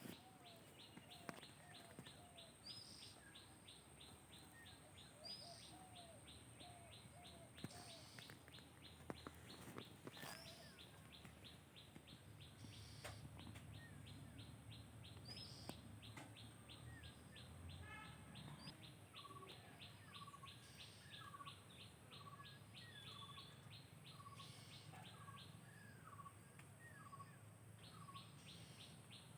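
Faint birdsong: several birds repeating short chirps. Behind them runs a rapid, even, high-pitched pulsing trill that drops out for a while in the middle and returns near the end.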